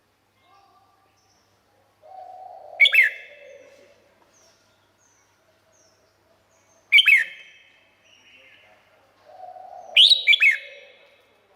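Red-whiskered bulbul singing: three short, loud song phrases about three to four seconds apart, the last a quick double phrase, with silence between.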